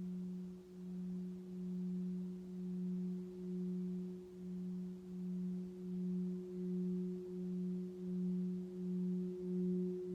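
Crystal singing bowl held ringing in one steady low tone with a fainter higher overtone, its loudness pulsing in a slow wobble about one and a half times a second.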